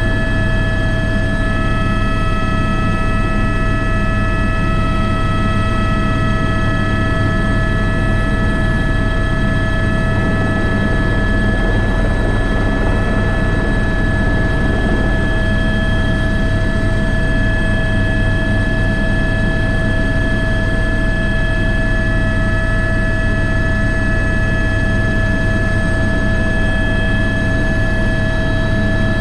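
Airbus H125 (AS350 B3) helicopter in flight, heard from the cockpit: a steady turbine whine of several high tones over the low, dense beat of the rotor, unchanging throughout.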